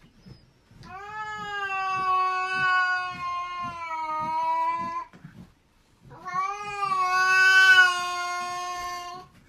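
A cat yowling: two long, drawn-out calls of about four and three seconds, nearly steady in pitch, with a short break between them.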